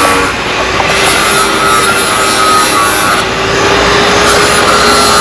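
Loud roadside noise: a steady engine-like hum under rough, grinding rubbing noise.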